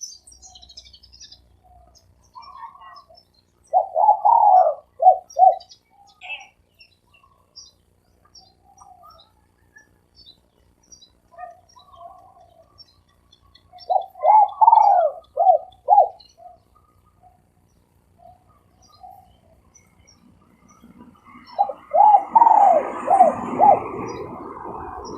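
Spotted dove giving its cooing song three times, each a quick run of coos ending in a drawn-out note, the '3-coo with a hanging tail' call style. Under the last bout there is a rustling noise.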